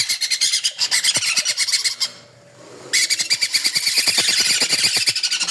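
Many small caged birds chattering and chirping together, a dense, loud wall of rapid high chirps and squawks. It breaks off for just under a second about two seconds in, then resumes at once.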